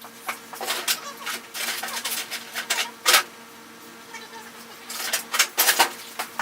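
Irregular metallic clinks and clicks, with a louder knock about three seconds in and a cluster near the end: hand work with tools and parts while fitting a muffler and its clamp to an old tractor's exhaust.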